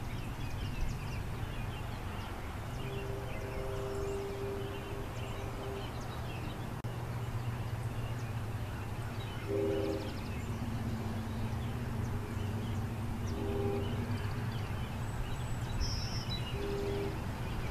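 Distant CSX train passing: a steady low rumble, with its horn sounding a chord several times, one long blast about three seconds in and shorter blasts later.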